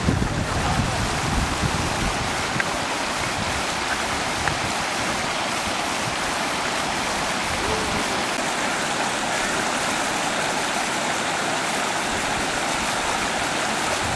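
Waterfall and stream water rushing in a steady, even wash, with some low rumbling in the first couple of seconds.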